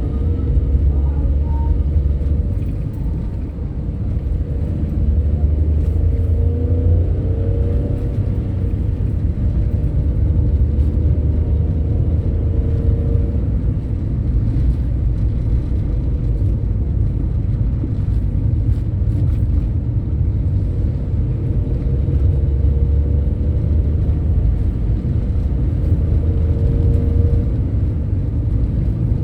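Heavy road vehicle engines, buses or trucks, giving a loud, deep, steady rumble, with the engine note rising several times as they accelerate.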